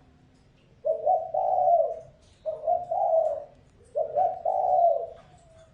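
Spotted dove cooing: three coo phrases in quick succession, each about a second long.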